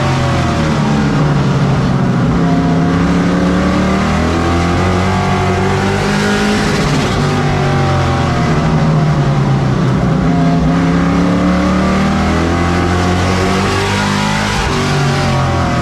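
Race truck engine running at race pace around a short oval. The revs drop as it goes into each turn and climb again on the way out, in two long rise-and-fall cycles.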